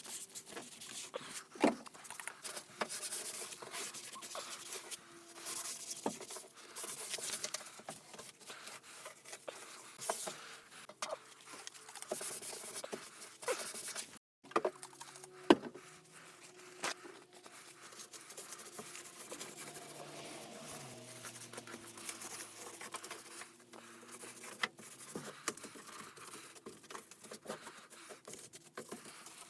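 Irregular handling noises: rustling and scraping with scattered clicks and knocks, the sharpest about a second and a half in and again about fifteen seconds in.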